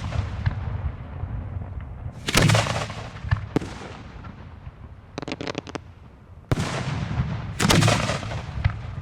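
Fireworks shells at close range: several loud booms with long rumbling tails, and a quick string of short crackling reports about five seconds in.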